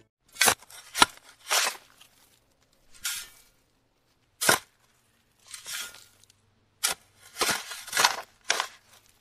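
Small plastic toy shovel digging into sand: about ten short scrapes and scoops with pauses between them, coming closer together near the end.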